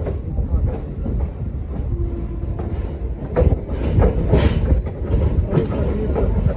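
A train running along the rails with a heavy low rumble and irregular wheel clacks over rail joints. The clacks grow louder and more frequent about halfway through.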